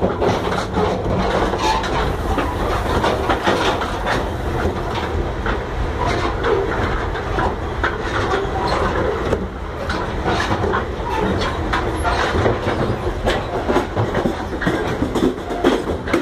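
Moving passenger train heard from the gangway between cars: a loud, steady rumble of wheels on rails with constant rattling and irregular clacks and knocks.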